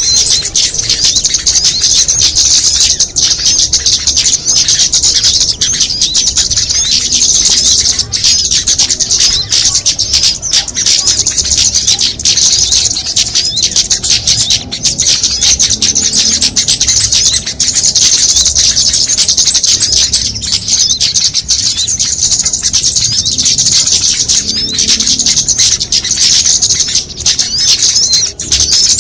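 Bird-lure recording of many small songbirds calling at once: a dense, loud chatter of rapid high-pitched chirps and twitters that never pauses.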